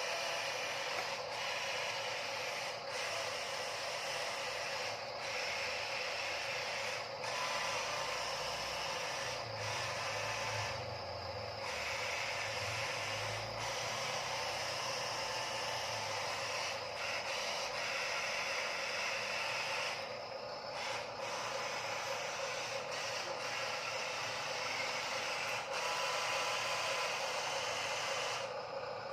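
Huina RC dump truck's small electric motor and gearbox running, a steady whine that eases briefly twice, about eleven and twenty seconds in.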